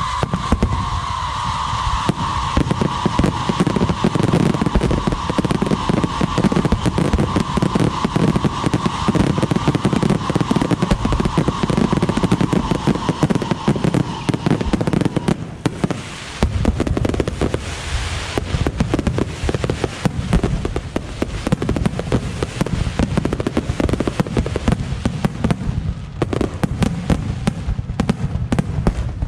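Fireworks display at full pace: a dense, rapid string of bangs and crackles with no let-up. A steady high tone runs through the first half and then fades out.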